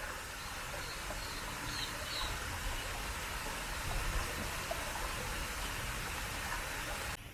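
Steady rushing background noise with a few faint, high bird chirps about one to two seconds in; the noise cuts off suddenly near the end.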